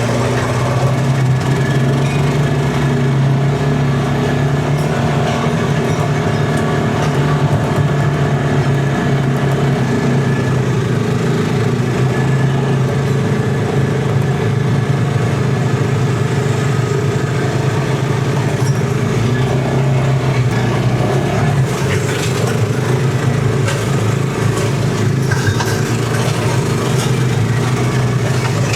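Steady engine hum from a tow-behind flail mower's 13.5 HP Briggs & Stratton four-stroke engine running at a constant working speed, with a few faint ticks of debris near the end.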